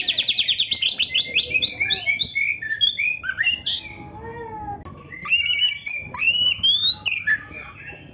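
Oriental magpie-robin (kacer) singing a full, varied song: a fast trill of repeated notes for about the first second and a half, then a string of varied whistled and chirping phrases. The song eases off briefly about four to five seconds in, then goes on with rising whistles.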